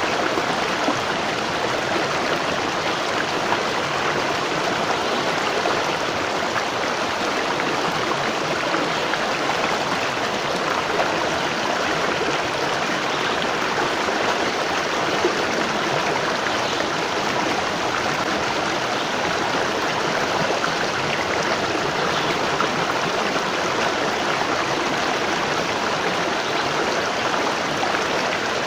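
Natural waterfall: water falling and splashing in a steady, even rush with no breaks.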